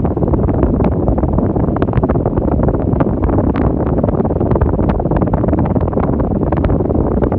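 Arno Ultra Silence Force electric fan running steadily, its airflow buffeting the microphone with a constant low rumble and crackle.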